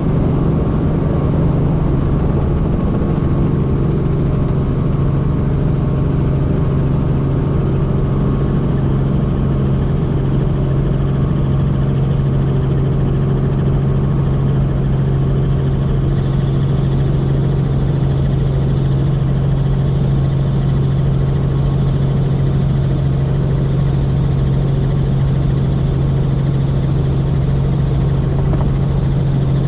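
Helicopter in flight: a steady, loud engine and rotor drone with a strong low hum that holds unchanged throughout.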